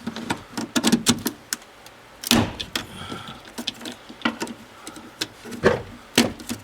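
Irregular clicks, knocks and rattles of hands working wiring-harness plugs loose in a Ford F150's cab, with a few louder knocks about two and a half seconds in and twice near the end.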